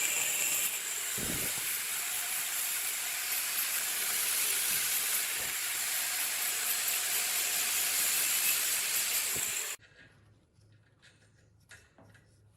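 Steady hiss of compressed air, cutting off abruptly about ten seconds in, followed by a few faint clicks.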